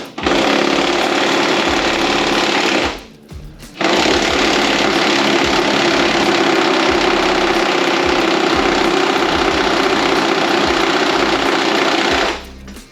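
Impact wrench hammering on a rusted truck body mount bolt in two long runs: about three seconds, a brief pause, then about eight more seconds before it stops near the end. The bolt is not coming loose readily, and the run is called horrendous.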